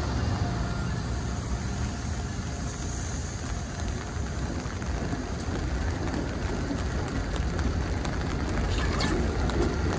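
Amtrak Acela passenger train cars rolling past at low speed, a steady low rumble of wheels on rail mixed with the steady patter of rain.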